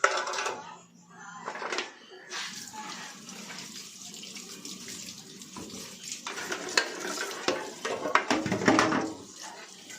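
Tap water running into a sink and splashing over plastic refrigerator parts as they are rinsed, the splashing heavier and more uneven from about six seconds in.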